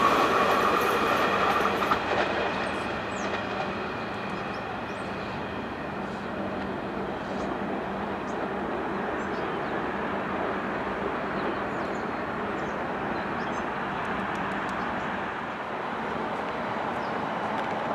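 Long Island Rail Road train running past on the rails, its sound fading as it moves away. A high tone at the start dies out within about two seconds, leaving a steady, slowly fading rumble.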